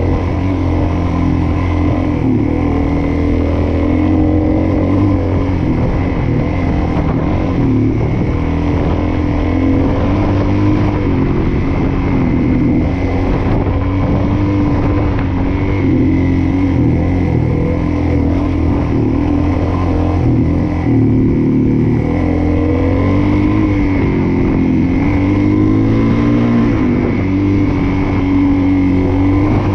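Suzuki DR-Z400S single-cylinder four-stroke engine running under way, its revs rising and falling repeatedly as the throttle is worked.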